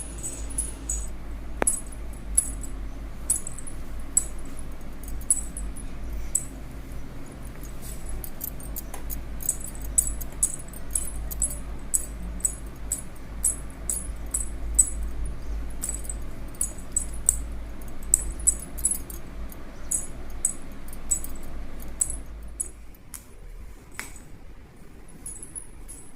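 Silver anklets (payal) with a single small ghungroo bell jingling in many short, irregular chimes as the feet move. A low rumble runs underneath and drops away near the end.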